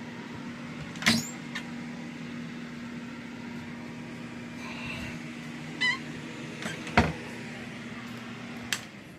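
A steady low mechanical hum from a running appliance, with a few sharp clicks and knocks, the loudest about a second in and about seven seconds in, and a brief squeak in the middle. The hum stops just before the end.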